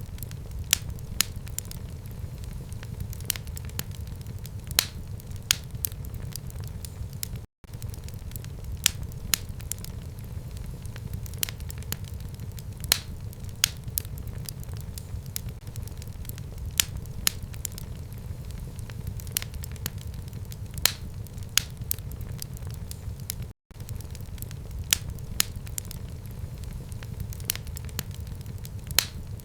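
Wood fire burning in a home fireplace, with frequent sharp crackles and pops over a steady low rumble. The sound cuts out for an instant twice.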